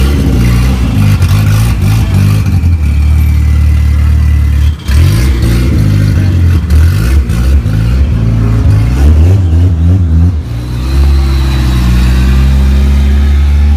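Loud car engine running close by, revved in a series of short blips through the middle, then settling back to a steady low running note.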